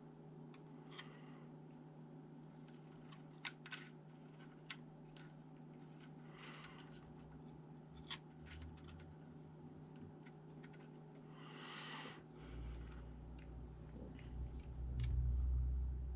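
Scattered small clicks and short rustles of hands handling laptop parts and tools over a steady low hum. A low rumble comes in about three-quarters of the way through and is the loudest sound.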